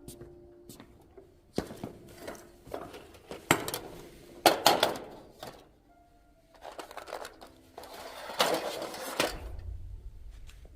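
Workbench handling noises while the front fork is worked on: scattered clicks and knocks of metal parts and tools, with two longer rustling, hissing stretches, over faint background music.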